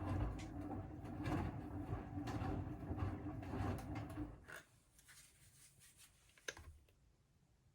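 Siemens WM14T490 front-loading washing machine turning its drum in the wash phase, motor hum and rumble, from a machine with a damaged drum bearing; the drum stops a little over four seconds in, and a single click follows near the end.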